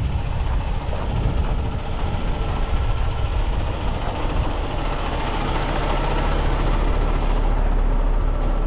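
Heavy truck's diesel engine running steadily, with wind buffeting the microphone.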